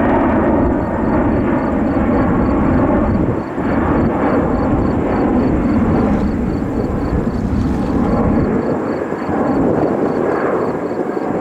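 Airbus A330-200 jet's engines rumbling loudly and steadily as it climbs out after takeoff.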